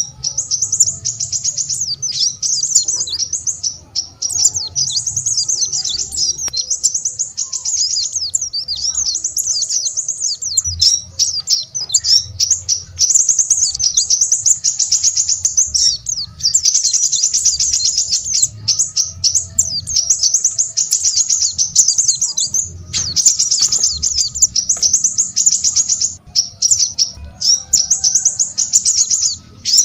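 Small songbirds singing a fast, high-pitched twittering song almost without break, with a few short pauses.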